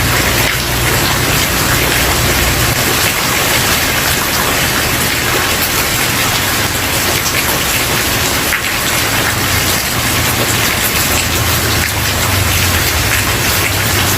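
Steady, dense rain falling on a wooden porch, an even patter with no single drops standing out. Under it runs a low rumble that fades a few seconds in and comes back near the end.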